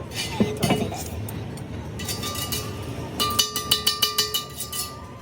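Steel truck wheel rim struck repeatedly with a hammer, a fast run of metal strikes over a couple of seconds with a ringing tone that lingers between them.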